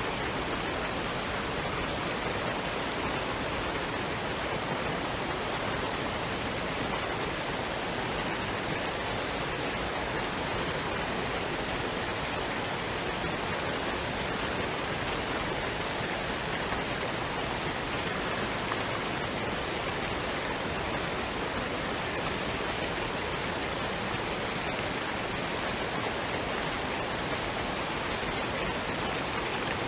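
Waterfall and stream water running: a steady, unbroken rush.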